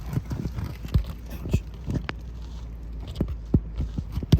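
Irregular light knocks and clicks of hand work on brittle asphalt roof shingles, a sharper knock about two seconds in and another near the end.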